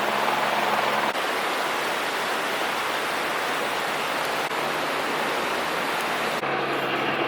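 Steady rush of running water, an even noise without tones. About a second in and again near the end it cuts to a different steady hum with low, engine-like tones.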